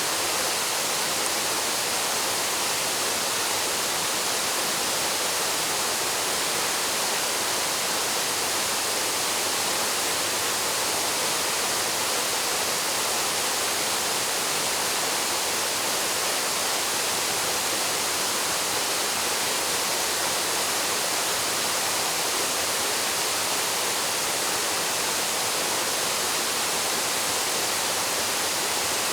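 Waterfall: water falling steadily into a plunge pool, an even, unbroken rush of water.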